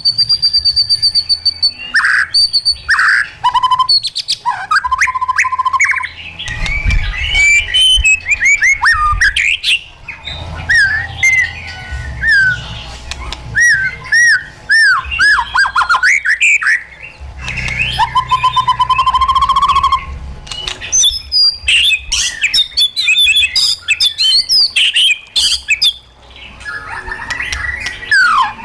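White-rumped shama singing loudly and almost without pause: a long, varied song of clear whistled notes, rising and falling slurred phrases and fast chattering trills, changing phrase every second or two.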